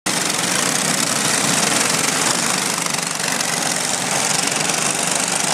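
Go-kart engine running steadily, a loud, dense mechanical drone that cuts in suddenly at the start.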